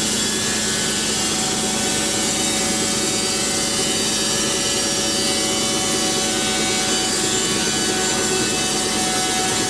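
Band sawmill blade cutting lengthwise through a pine log at a slow, steady feed, with the mill's motor running under load.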